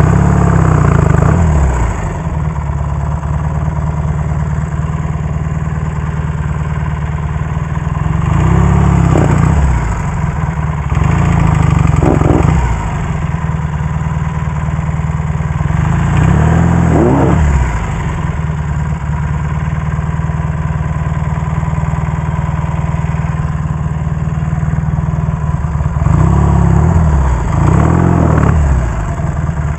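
1967 Triumph Bonneville T120R's 650 cc parallel-twin engine running under way, its revs rising and falling several times as the throttle is opened and closed.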